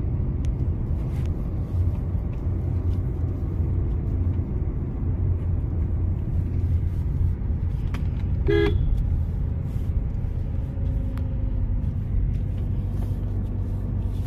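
Steady low rumble of a car's engine and road noise heard from inside the moving car, with one short horn toot about two-thirds of the way through.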